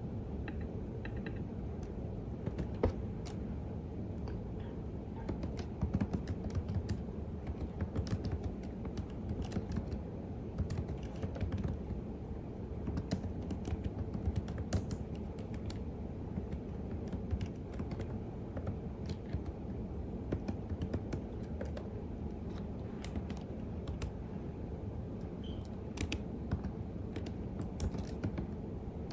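Typing on a computer keyboard: a steady, irregular run of key clicks, over a low background hum.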